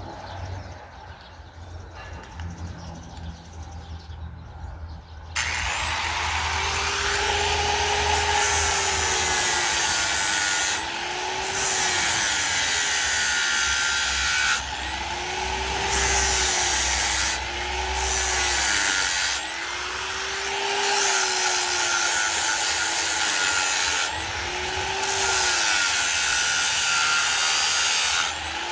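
Handheld electric power tool shaping a wooden bowl, starting up about five seconds in after a quieter stretch. Its motor pitch sags and recovers again and again as the tool bites into the wood, with brief dips every few seconds as it is lifted off.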